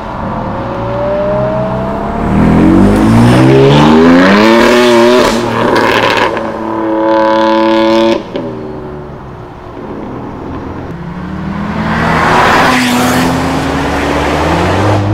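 Sports car engines accelerating hard one after another, their exhaust notes climbing in pitch through the gears. One engine holds a high, steady note for about two seconds, then cuts off sharply. Another car then passes, and a further one starts pulling away near the end.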